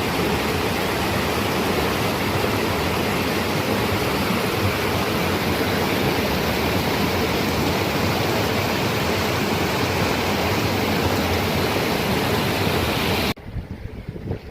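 Loud, steady rushing water close to the microphone, a waterfall or fast cascade. About 13 seconds in it cuts off suddenly and a quieter, more uneven burbling of a stream follows.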